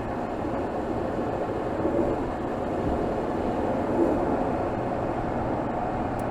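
Mercedes GLS 450's 3.0-litre turbocharged inline-six engine running in city driving, heard from a microphone under the bonnet: a steady, even engine noise with no revving.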